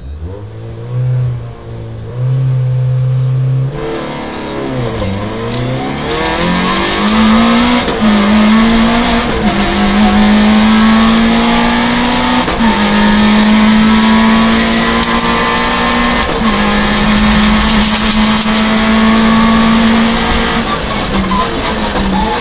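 Peugeot 106 rally car's four-cylinder engine heard from inside the cockpit: revs held high at the stage start, then a full-throttle launch about four seconds in. It accelerates hard, the pitch climbing and dropping back at each of several upshifts, with loud rattle and clatter inside the stripped car.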